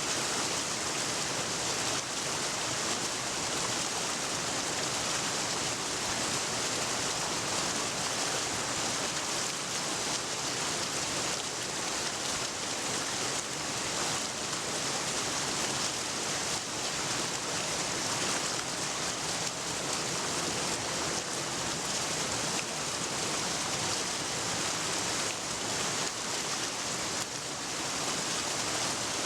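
Water rushing steadily: an even, unbroken hiss with no distinct splashes or drips.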